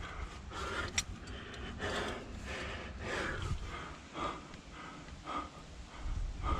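A climber breathing hard in short, repeated puffs while climbing, with one sharp click about a second in.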